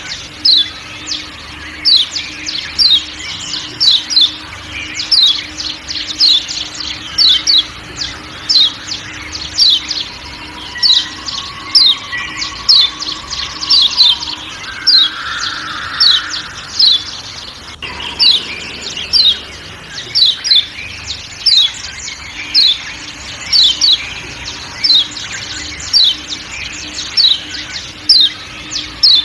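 Lombok yellow white-eye (kecial kuning) giving its repeated 'ciak ciak' call: short, high, falling chirps in clusters of two or three, about once a second, over a faint forest background.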